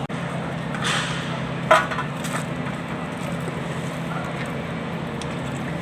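Three short, sharp knocks, the loudest a little under two seconds in, over a steady low hum.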